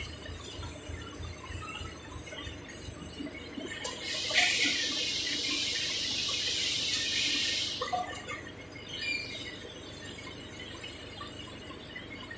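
Packaging-line machinery running, with scattered faint high squeaks. Near the middle, a loud hiss cuts in for about three and a half seconds and then stops abruptly.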